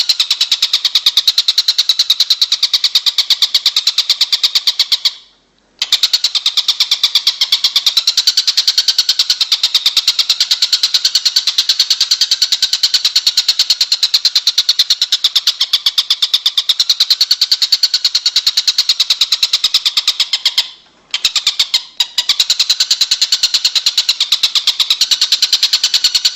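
Songbird masteran recording: a continuous, high-pitched buzzy trill of fast, even pulses, broken by two short breaks, about five seconds in and again near twenty-one seconds.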